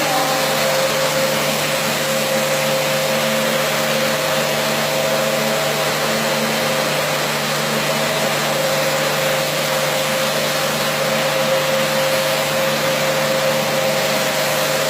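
Carpet-washing machine running steadily: an even motor hum under a loud, constant rushing hiss.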